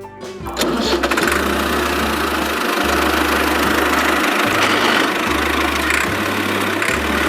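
Small engine of a homemade mini tractor running steadily and loudly, coming up to full loudness about half a second in.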